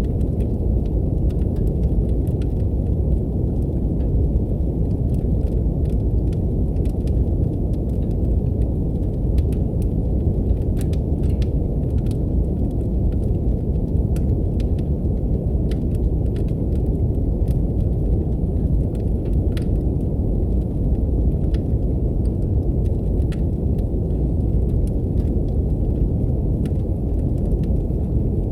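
Steady brown noise, a deep even rumble, with the scattered pops and crackles of a wood fire in a fireplace over it.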